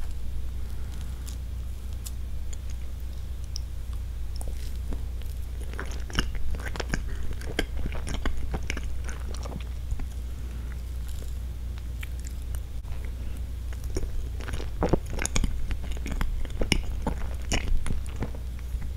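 Close-miked, wet chewing and mouth clicks of someone eating spoonfuls of soft sponge roll cake with cream. The clicks come in two spells, about a third of the way in and again near the end, over a steady low hum.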